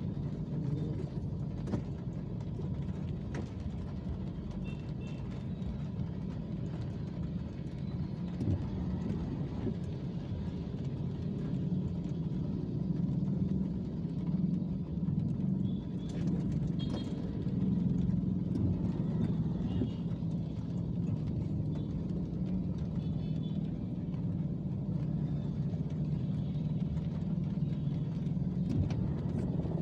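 Road traffic on a wet city street in the rain: a steady low rumble of vehicles passing.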